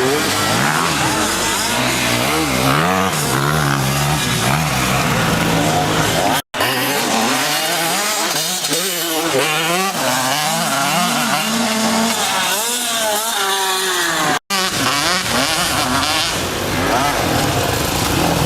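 85cc two-stroke motocross bike engine revving hard, its pitch climbing and dropping again and again through the gears. The sound breaks off for an instant twice.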